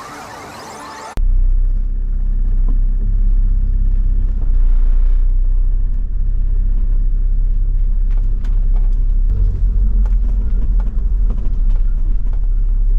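Music cuts off about a second in and gives way to a Toyota Land Cruiser 70 diesel driving on an unpaved forest road: a steady low rumble of engine and tyres, with scattered sharp ticks.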